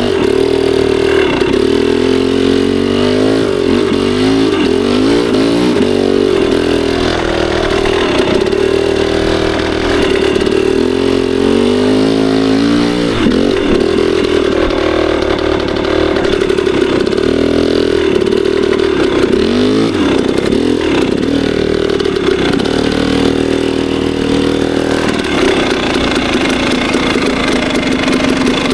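KTM 300 two-stroke dirt bike engine working under load on a steep switchback climb, the revs rising and falling constantly as the throttle is worked, with brief dips and a lower, steadier note over the last few seconds.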